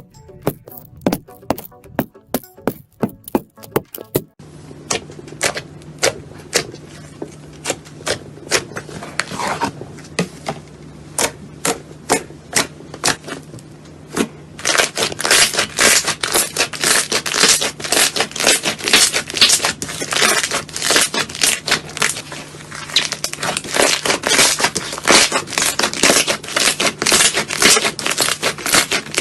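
Slime being pressed and squeezed by hand, making sharp crackles and pops. The clicks are spaced out at first and become a dense, continuous crackling from about halfway through, over a faint steady hum.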